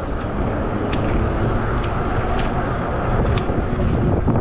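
Steady low rumble of a moving 20-inch fat-tire e-bike, its tyre and wind noise, crossing an intersection with a car nearby, with a few faint clicks.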